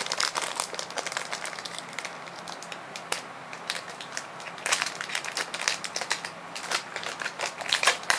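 Crinkling and crackling of a foil Pokémon booster pack wrapper being handled, in irregular clusters of sharp crackles.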